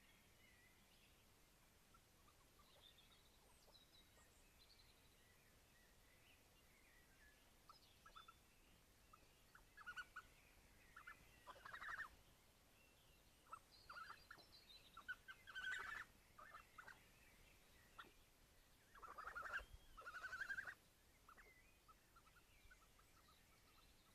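Young wild animals calling: repeated short, chattering calls in quick clusters, loudest about halfway through and again near the end, over faint birdsong.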